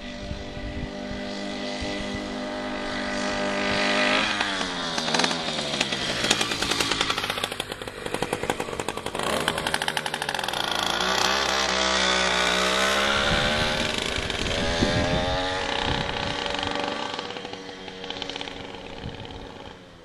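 Skyhawk 66cc two-stroke motorized-bicycle engine running through an expansion chamber exhaust, sounding a lot like a dirt bike. Its pitch climbs about four seconds in, dips and climbs again around the middle, and the sound fades near the end.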